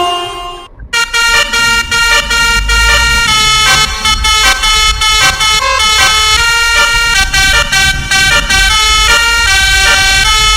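Loud bus telolet horn, a set of musical air horns, playing a quick tune of stepped notes. A short phrase dies away in the first second, then a longer run of changing notes follows.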